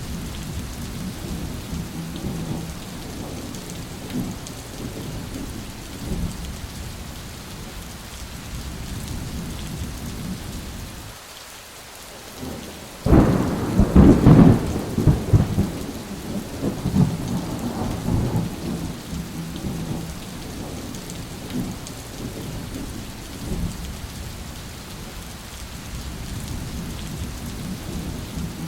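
Thunderstorm: steady rain with low rolling thunder. About thirteen seconds in, a sudden loud thunderclap breaks in and rumbles away over several seconds.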